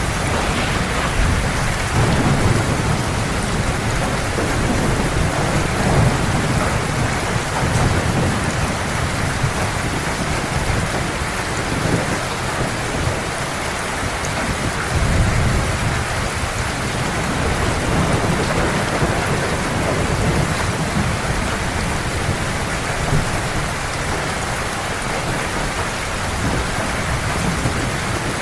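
Heavy rain falling steadily, with several low rolling rumbles of thunder swelling and fading beneath it.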